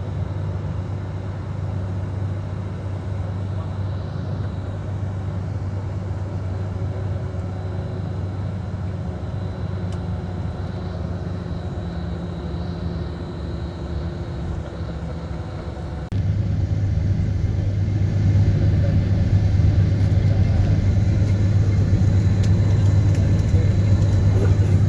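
Steady low rumble of a car driving. It becomes abruptly louder about two-thirds of the way through.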